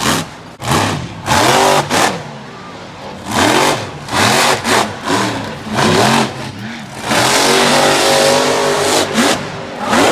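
Monster truck engine revving hard in a string of throttle bursts, its pitch rising and falling with each one, then held at high revs for about two seconds near the end.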